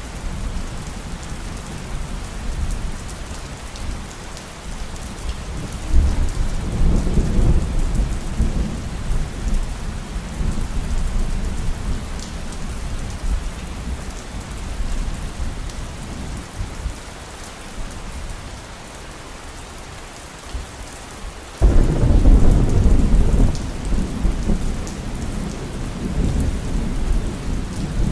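Thunderstorm: heavy rain falling steadily, with two low rolls of thunder, the first about six seconds in and a louder one that breaks in suddenly about three-quarters of the way through and rumbles on for several seconds.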